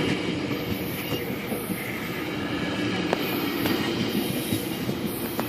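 GO Transit commuter train's coaches rolling past: a steady noise of wheels on the rails, with a few faint clicks.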